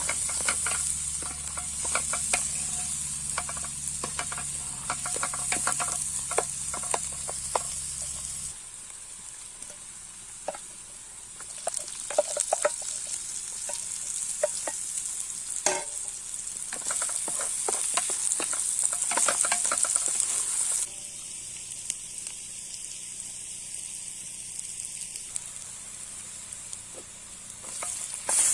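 Food frying in hot fat in a pan, with a steady sizzle and many sharp clicks and scrapes of a utensil stirring or turning it. The sound changes abruptly twice.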